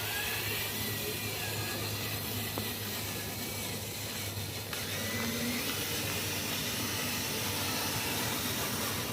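Radio-controlled hydraulic construction model running: a steady hissing whir from its small electric motors and hydraulic pump, with a faint whine that wavers up and down in pitch.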